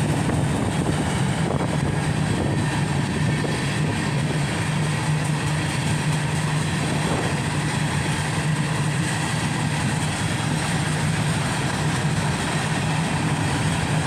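Cars of a mixed freight train rolling past at speed: a steady rumble of steel wheels on rail.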